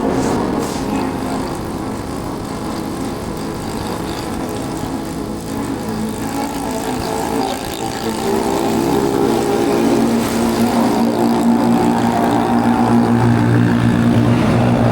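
Motorbike engine running while riding, with road and wind noise. The engine grows louder about halfway through.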